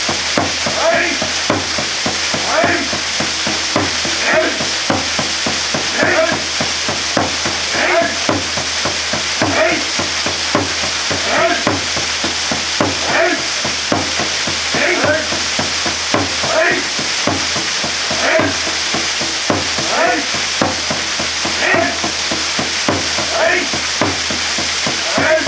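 Waterfall pouring steadily, with a short pitched sound repeating about every second and a half over the rush of water.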